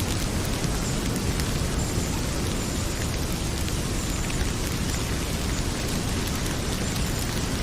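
Heavy rain pouring steadily with a deep low rumble, mixed with the small crackles and pops of a wood fire in a fireplace.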